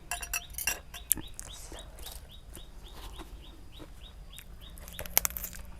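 A bird chirping over and over in a quick regular series, about three short calls a second, with a few sharp clicks about a second in and near the end.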